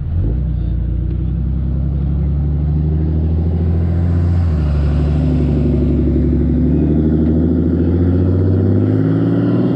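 A motor vehicle's engine running steadily under way, its pitch stepping down about halfway through and changing again near the end, as with gear changes.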